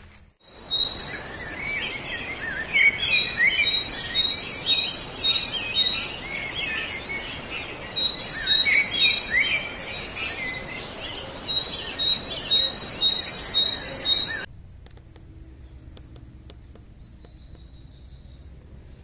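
Birds chirping and calling in tropical forest, with rapid runs of short high repeated notes over a steady hiss of forest background; the sound cuts off abruptly about fourteen seconds in, leaving only a quieter outdoor hum.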